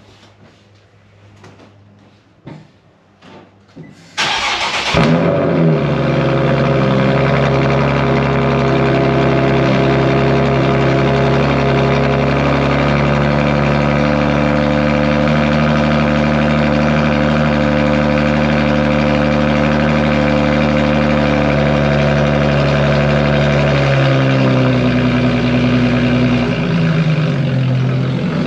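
Nissan 370Z's 3.7-litre V6 with a straight-piped Tomei 3-inch titanium exhaust, cold-started: a few faint clicks, then the engine catches with a sudden loud burst about four seconds in and settles into a loud, steady high cold idle. Near the end the idle drops to a lower pitch as the revs come down.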